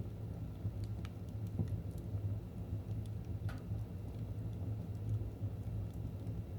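Fire in a fireplace crackling: scattered small pops over a steady low rumble, with one louder pop about three and a half seconds in.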